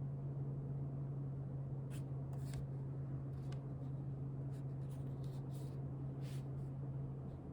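Writing on paper: a handful of short, light scratchy strokes between about two and six and a half seconds in, over a steady low hum that cuts off near the end.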